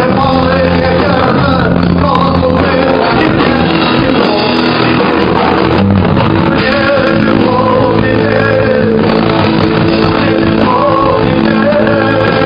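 Rock band playing live with a singer, the vocal line wavering over steady guitar and bass.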